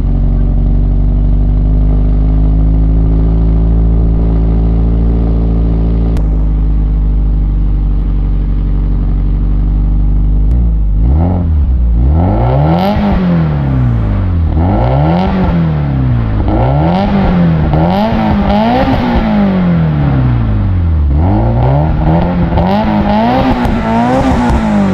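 2003 Subaru WRX STI's turbocharged flat-four boxer engine idling steadily after a cold start. About ten seconds in it switches to a series of about six quick revs, each rising and falling in pitch, with the engine now warmed up.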